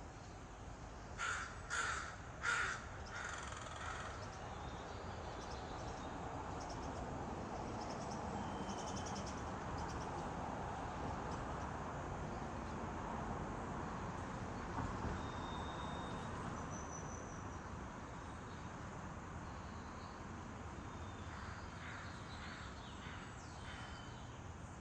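Crows cawing: a quick run of four caws about a second in, then fainter caws again near the end, over a steady background hiss. The crows are agitated by a barred owl perched nearby.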